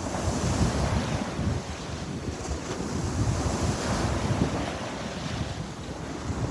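Sea waves breaking and washing on the shore in a steady, swelling rush, with wind buffeting the microphone.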